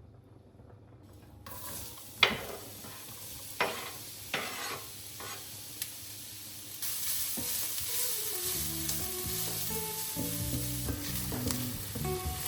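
Food sizzling in a frying pan, with a few sharp knocks of a utensil against the pan. The sizzle grows louder about halfway through, and soft background music comes in during the second half.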